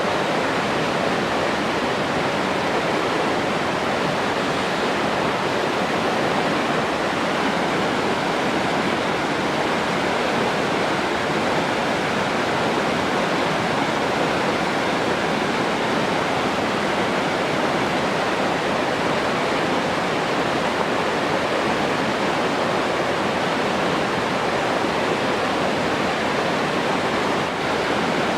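Steady rushing of flowing water, like a waterfall or stream, unchanging throughout.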